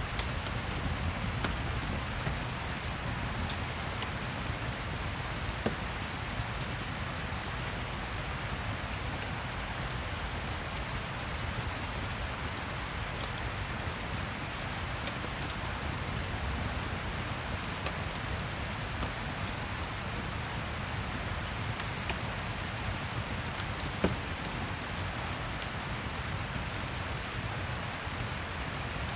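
Steady rain with scattered crackles and pops from a fireplace; one sharper pop stands out about 24 seconds in.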